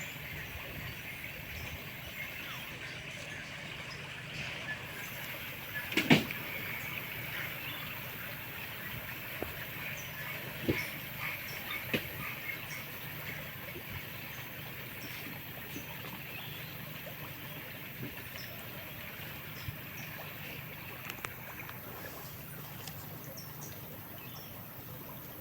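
Steady rush of flowing river water, with a few sharp knocks, the loudest about six seconds in.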